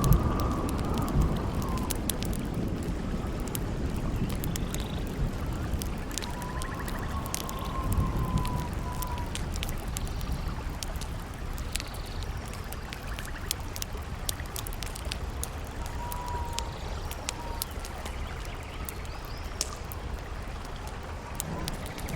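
Campfire crackling in scattered sharp pops over a steady rush of river water. Wind howls in three soft, drawn-out gliding whistles, at the start, around seven seconds in and around sixteen seconds in. A low rumble swells about eight seconds in.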